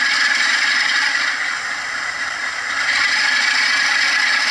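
Sound-fitted model Class 47 diesel locomotive pulling away slowly: its LokSound decoder plays a Class 47 diesel engine sound through the small standard onboard speaker, with a rattle from the model running on the track. The sound is steady and swells a little again near the end.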